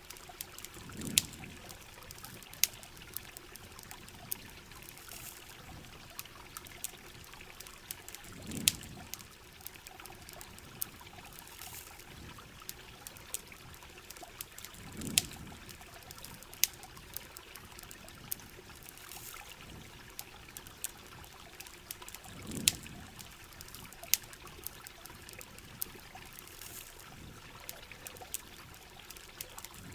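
Heavy rain and trickling water in a steady hiss, dotted with frequent sharp pops and crackles from a campfire; a low swell comes and goes about every seven seconds.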